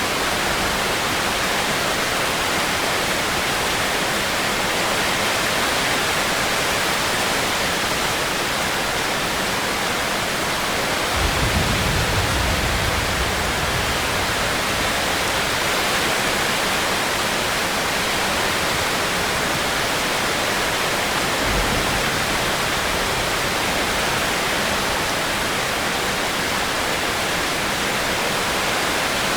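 Steady rain falling in an even hiss. A brief low rumble comes in about eleven seconds in and fades over a few seconds, and a short low thump follows about ten seconds later.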